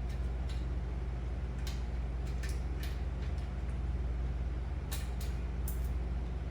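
Light metallic clicks and taps, about eight of them in irregular clusters, from a valve spring compressor and valve keepers as valves are removed from a Packard engine's cylinder head. A steady low hum runs underneath.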